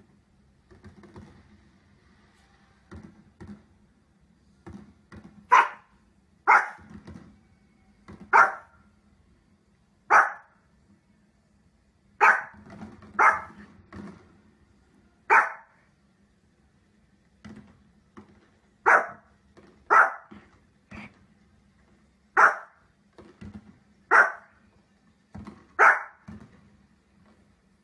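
A small dog barking in single sharp barks one to two seconds apart, about a dozen in all, starting about five seconds in.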